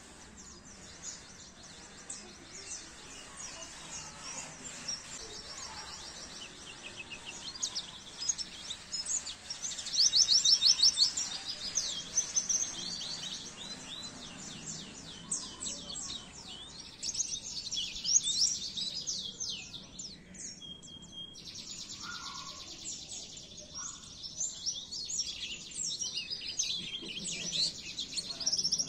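A pleci (white-eye) singing: long, rapid twittering phrases of high chirps and trills, the loudest a fast trill about ten seconds in.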